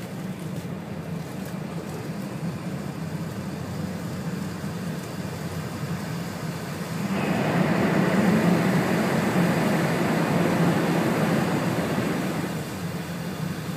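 Running noise of an E4 series Shinkansen heard inside the passenger cabin: a steady rumble and rush at speed. About halfway through the noise jumps suddenly louder for about five seconds, then eases back.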